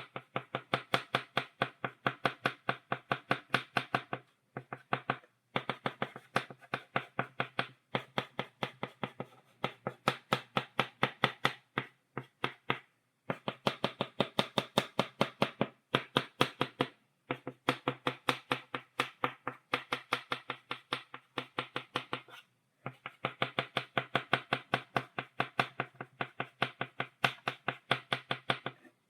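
Chalk tapping on a blackboard, stippling dots: quick sharp taps about five or six a second, in runs of a few seconds with brief pauses between them.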